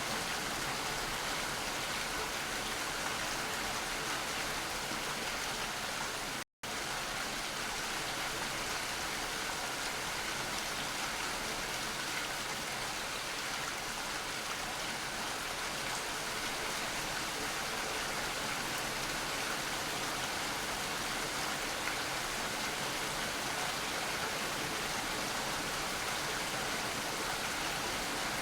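Steady rain falling, a dense even hiss with no distinct drops standing out. About six and a half seconds in, the sound cuts out completely for a split second and then resumes unchanged.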